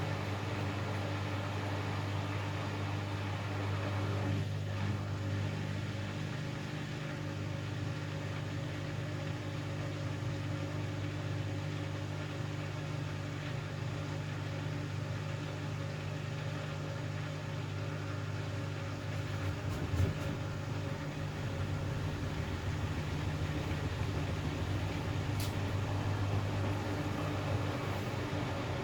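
Hoover Axi 9kg front-loading washing machine running, a steady motor hum with held low tones, and a single knock about two-thirds of the way through.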